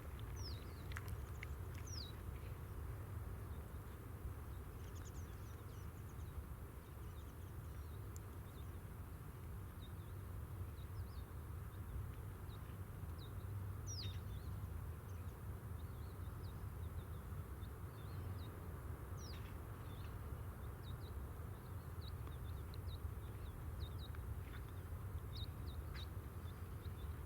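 Steady low rumble with small birds calling over it: short, high chirps that slide downward, coming every second or so.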